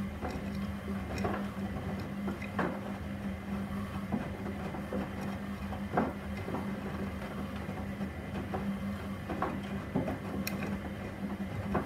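Gorenje SensoCare front-loading washing machine mid-wash: the drum motor hums steadily while the turning drum gives off irregular knocks and clicks.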